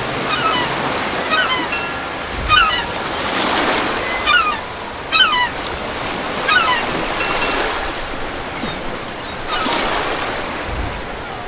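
Natural ambience of waves washing, swelling twice, with birds chirping in short repeated calls over it.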